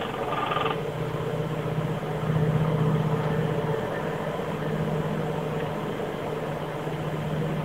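A steady low droning hum with a fainter higher tone above it, swelling about two seconds in. The uploader takes it for the unexplained 'Hum' heard across southern Sweden.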